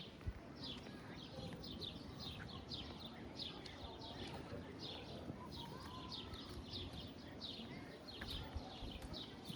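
Small birds chirping: a steady run of short, high, falling chirps, several a second, over a low outdoor rumble.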